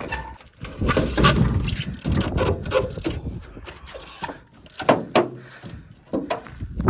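A bicycle being ridden and tapped onto old aircraft wreckage: irregular knocks and clanks over a low rumble, loudest about a second in and again with sharp hits around five seconds.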